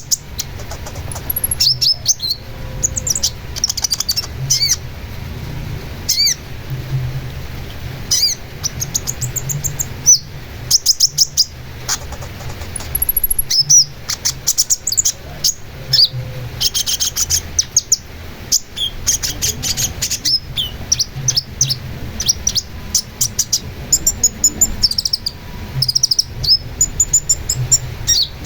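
Songbird singing a fast, varied song of sharp chips, short trills and quick down-slurred whistles, played as tutor song to set caged birds singing.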